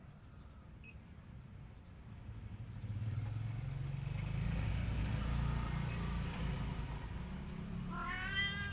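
A low rumble swells up about three seconds in and stays loud; near the end a cat meows once.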